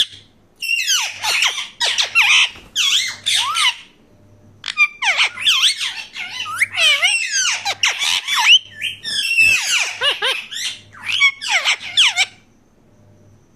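Parakeets screeching: runs of harsh, fast-sweeping calls, a short pause, then a long dense run that stops shortly before the end.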